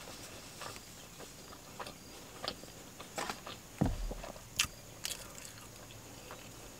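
A person chewing a mouthful of burger with a crispy bun, making soft, scattered mouth clicks and crunches, with a louder thump about four seconds in.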